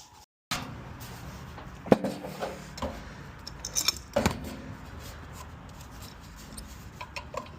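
Metal clinks, knocks and rattles of tools and sheet-metal parts being handled while working on a furnace blower assembly, the two loudest knocks about two and four seconds in, over a steady low hum.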